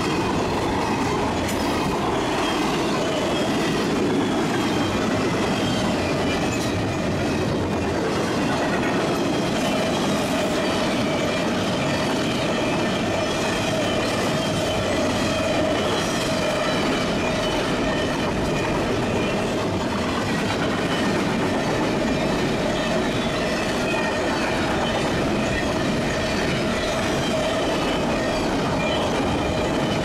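CSX double-stack container train's well cars rolling past close by: a steady rumble and rattle with occasional clicks of wheels over the rails and a thin, steady wheel squeal.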